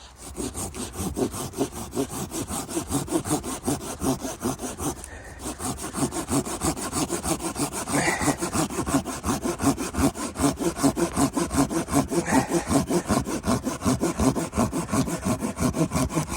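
Hand saw cutting through wood in quick, even back-and-forth strokes, with a brief pause about five seconds in.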